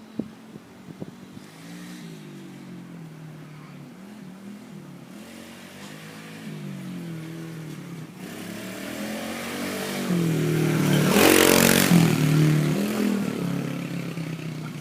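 Dirt bike engine, its pitch rising and falling with the throttle, growing louder as the bike comes close and passes about three-quarters of the way through, then fading as it moves off.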